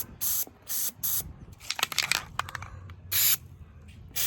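Aerosol can of spray lithium grease giving a series of short hissing squirts, with some clicking and rattling about two seconds in.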